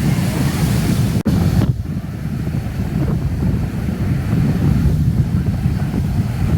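Wind rumbling and buffeting against the microphone, with a brief break about a second in.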